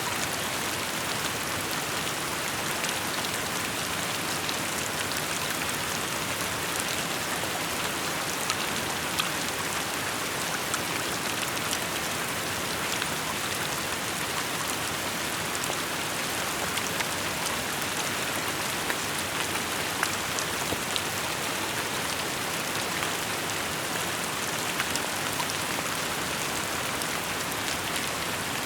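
Steady rain falling and splashing on surfaces, an even hiss with scattered individual drop hits.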